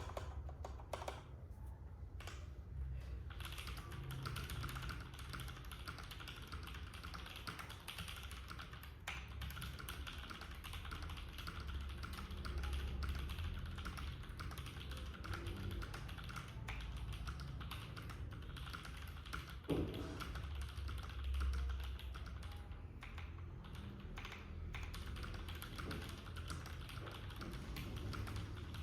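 Typing on a Keydous NJ80 mechanical keyboard with a brass plate and lubed, filmed Boba U4T 62g tactile switches under Aifei CMK keycaps. A few single keystrokes open it, then it settles into continuous fast typing, with one louder stroke past the middle.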